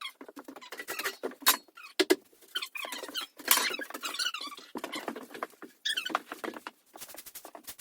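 Irregular rustling, scraping and light knocking of debris and loose wood being handled and swept off an old floor, a quick run of small clicks and scrapes.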